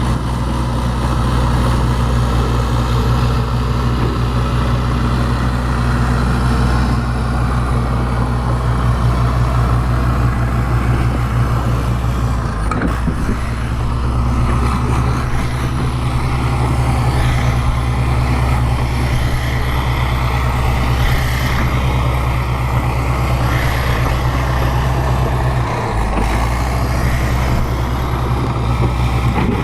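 Bulldozer's diesel engine running steadily under work, with a thin high whine above it; the engine note changes briefly about halfway through and again near the end.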